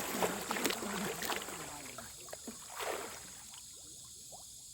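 Water sloshing and splashing around a small boat on a river, fading after about two seconds, with one more swish near three seconds. Under it, a steady high buzz of night insects.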